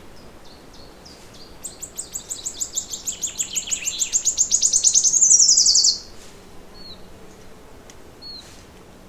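A songbird singing a fast trill of repeated high notes that speeds up and grows louder for about four seconds, then stops suddenly. A few faint single chirps from other birds come before and after it.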